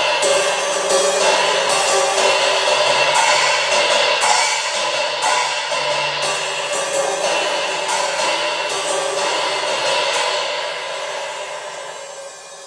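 Cymbal fitted with a homemade sizzler of a couple of ball bearings, struck repeatedly. It rings with a dense sizzling wash that dies away over the last couple of seconds.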